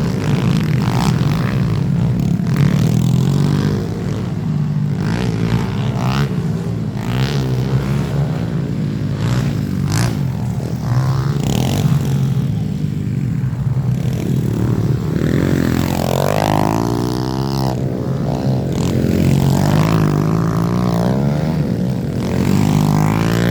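Small four-stroke pit bike engine revving up and down as the bike is ridden hard around a dirt track, its pitch rising and falling repeatedly with the throttle.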